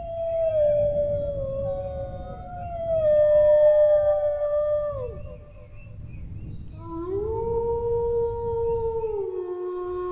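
A dog howling in long, drawn-out howls. One howl slides slowly down in pitch and a second ends in a sharp downward drop about five seconds in. After a short lull, a new howl rises about seven seconds in, holds, then steps down in pitch near the end. A steady low background noise runs underneath.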